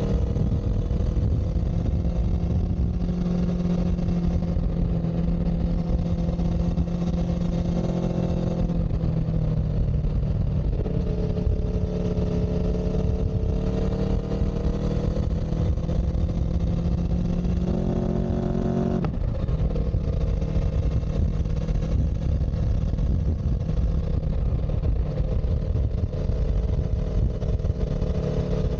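A vehicle engine running steadily over a heavy low rumble. Its pitch climbs slowly and drops abruptly about nine seconds and again about nineteen seconds in.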